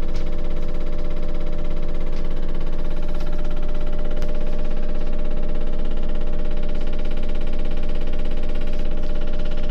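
Toshiba drum-type washing machine running with a loud, steady, many-toned abnormal drone and faint clicks about once a second. The repairer traced the noise to an oil leak in the shock absorbers of the drum's electronically controlled suspension.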